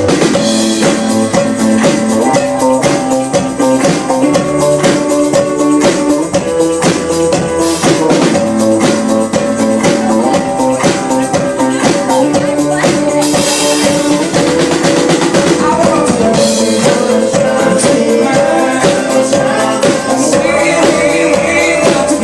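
Live band music, loud and continuous, with a steady drum-kit beat under sustained instruments.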